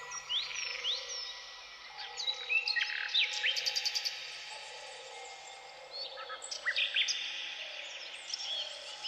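Songbirds chirping and trilling, many quick rising and falling notes with short rapid trills, over soft steady sustained tones.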